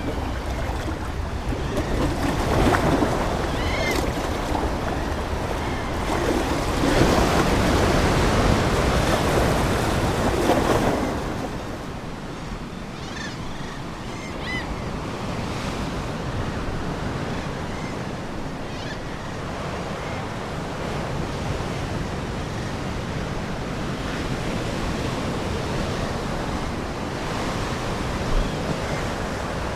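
Ocean waves breaking and washing on the shore, with two bigger surges in the first half that then settle into a softer, steady wash. A few faint short seagull calls sound over the surf.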